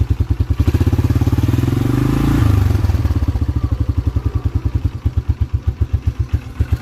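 The 1987 Yamaha Moto-4 350 ATV's air-cooled single-cylinder four-stroke engine is idling with an even pulse. About half a second in it picks up revs for roughly two seconds, then drops sharply back to idle.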